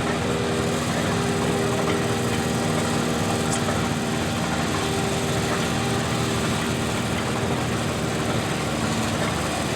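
Small garden tractor engine running steadily at an even speed.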